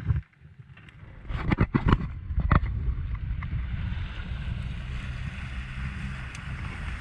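Several sharp knocks on a small fibreglass fishing boat about one and a half to two and a half seconds in, then a steady low rumble with a hiss above it.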